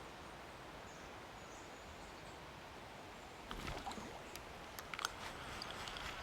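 Steady outdoor background hiss, then from about three and a half seconds in, rustling and a few sharp clicks and knocks of fishing tackle being handled at the waterside.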